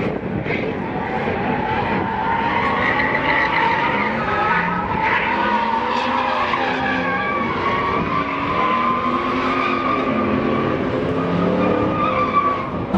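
A truck doing a burnout: the tires squeal continuously over the engine revving up and down.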